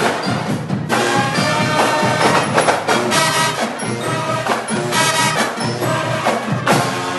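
Band music with brass and percussion, playing steadily.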